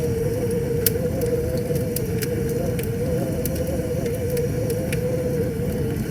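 Campfire crackling, with sharp pops every second or so over the steady rush of a flowing river. A steady, slightly wavering hum runs underneath.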